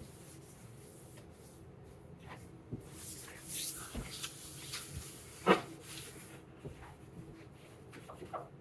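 Scattered knocks, clicks and clatter of kitchenware being handled while cleaning up, with one sharp loud knock about five and a half seconds in, over a faint steady hum.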